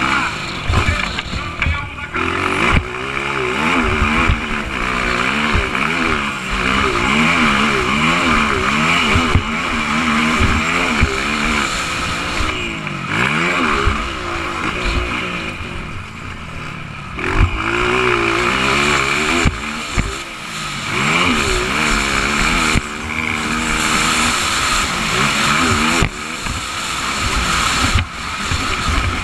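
Motocross bike engine revving up and down over and over as it is ridden hard around a track, its pitch climbing and dropping with each throttle burst and shift.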